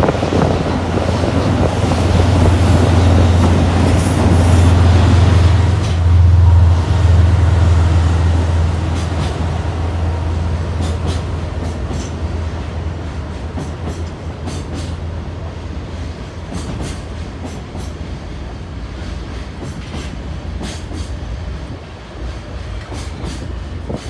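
A diesel-hauled container freight train passing: a loud, deep drone for the first eight seconds or so that then slowly fades as the locomotive pulls away. From about nine seconds in, the wagons' wheels click rhythmically over the rail joints.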